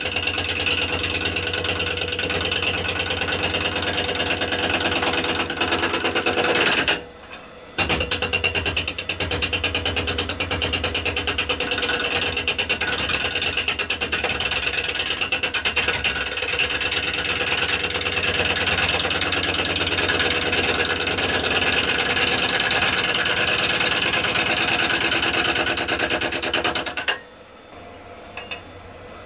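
A bowl gouge cuts a spinning rowan bowl blank on a wood lathe, making a rapid, rough chatter of knocks as the edge meets the oval, natural-edged blank. The cutting breaks off for about a second some seven seconds in and stops near the end, leaving a quieter running sound.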